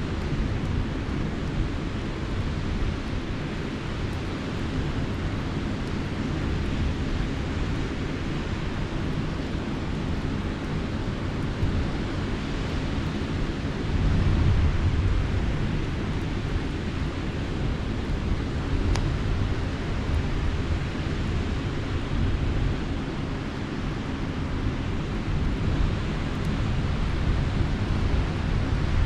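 Steady seaside night ambience: a campfire burning against a continuous rumble of surf and wind. The low rumble swells for a couple of seconds around halfway, and one sharp pop comes from the fire about two-thirds of the way in.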